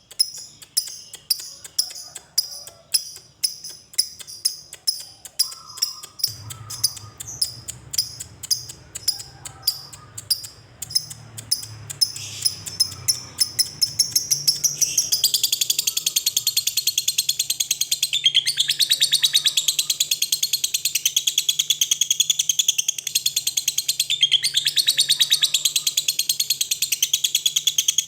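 Lovebird calling: sharp, high chirps a couple of times a second that speed up, then about fifteen seconds in break into a long, fast, unbroken chattering trill, the drawn-out "ngekek" call.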